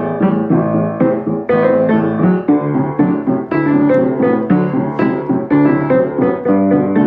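Piano introduction to a song: chords struck in a quick, even rhythm, with no voice yet.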